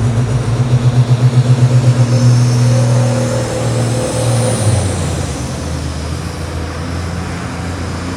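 Pulling tractor's engine running hard under load, pulsing loudly at first; about five seconds in its note drops lower and quieter as it eases off.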